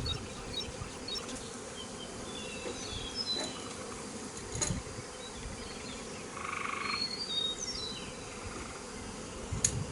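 A swarm of honey bees buzzing steadily, with short high chirps and a couple of faint clicks over the hum.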